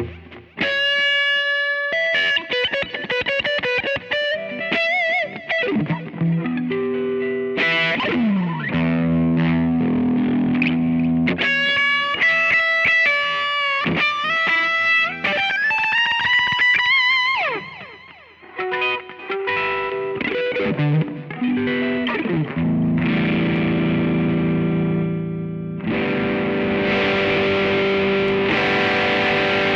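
Electric guitar played through a BOSS OD-2R overdrive pedal, giving a distorted tone. It plays picked single-note lines with string bends and a few downward slides, then settles into held, ringing chords for the last several seconds.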